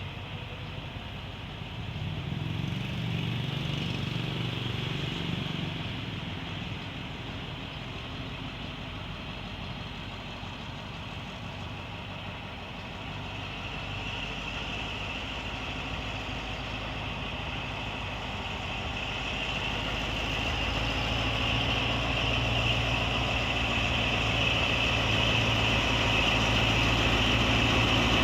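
Alsthom AHK diesel-electric locomotive's engine running, growing steadily louder through the second half as the train pulls out of the station.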